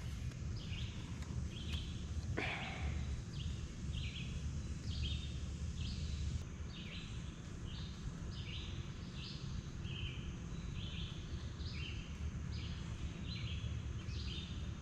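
A songbird calling over and over, short high notes about twice a second, over a steady low rumble of background noise.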